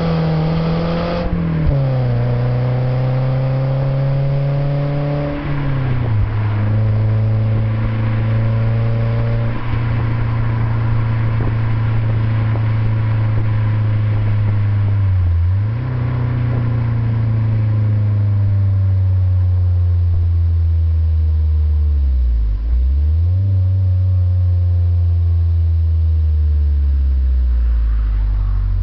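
BMW Z3's M44B19 1.9-litre inline-four running through an OBX aftermarket exhaust on the move, its note climbing under acceleration and dropping at gear changes about a second in and near five seconds, then dipping briefly twice more later on.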